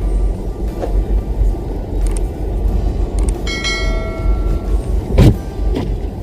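Vehicle engine rumbling steadily, with a brief high-pitched tone about three and a half seconds in and a sharp thump about five seconds in.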